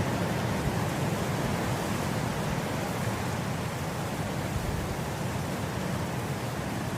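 Wind blowing steadily through grass: an even rushing noise with a deep low rumble, and no single gust standing out.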